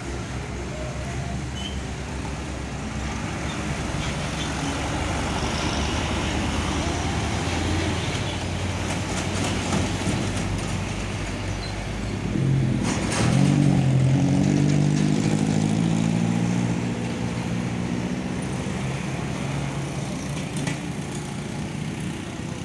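Road traffic noise, with a truck passing close by: its engine hum rises to the loudest point about halfway through and holds for several seconds before fading back into the traffic.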